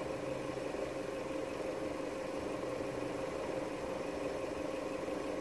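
Vauxhall Astra J 1.6 four-cylinder petrol engine idling steadily. Its lean-running fault, a vacuum leak at the crankcase-breather membrane, has just been cured.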